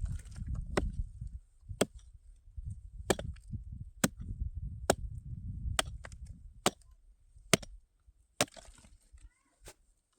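Repeated sharp chopping strikes, roughly one a second, over a low rumbling noise that dies away near the end.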